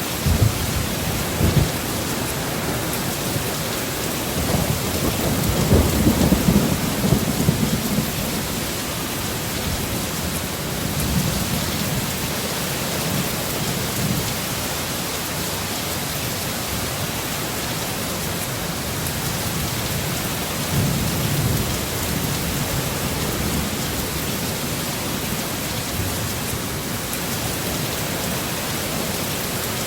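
Heavy rain with steady hiss, with rolls of thunder rumbling through it; the longest and loudest roll comes about 5 to 8 seconds in, and shorter ones come near the start, around 11 and 21 seconds, and at the very end.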